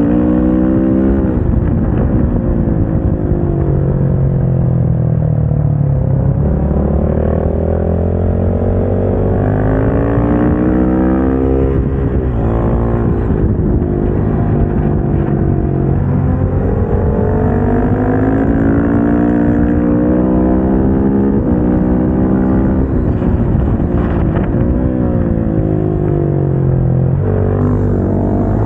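KTM 690 SMC-R's single-cylinder engine running hard on track. Its pitch climbs in steps as it accelerates through the gears, then falls as it slows, several times over.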